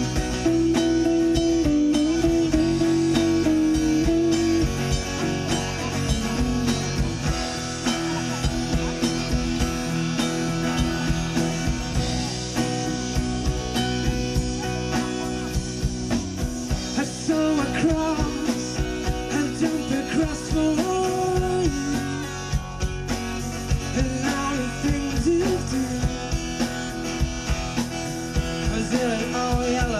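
A band playing: singing over guitar and drum kit, with a steady beat.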